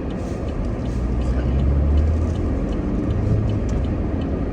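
A car driving, heard from inside the cabin: a steady low road-and-engine rumble that swells about a second and a half in, with faint light ticks over it.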